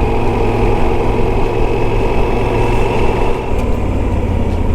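Yamaha Super Ténéré motorcycle's parallel-twin engine running steadily on the road, heard from the rider's camera, with a constant low rumble underneath.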